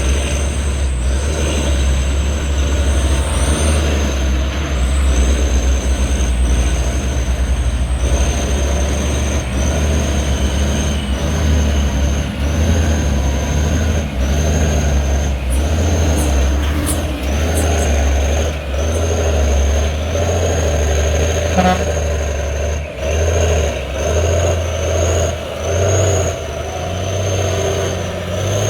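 Heavy diesel truck engine running hard under load, its low rumble steady at first, then surging and easing several times in the last third as the throttle comes on and off.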